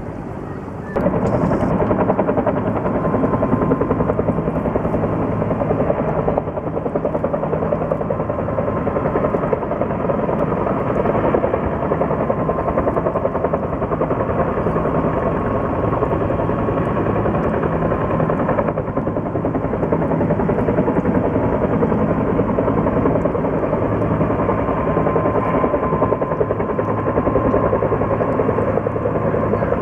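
Firefighting helicopter's rotor beating steadily, a fast, even pulsing with a low engine drone under it; it comes in abruptly about a second in.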